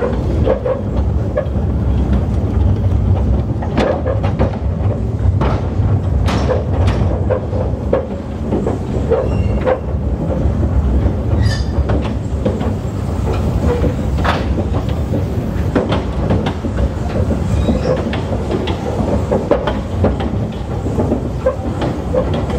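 Narrow-gauge train running along the track: a steady low rumble, with irregular clicks and clacks from the wheels over the rails.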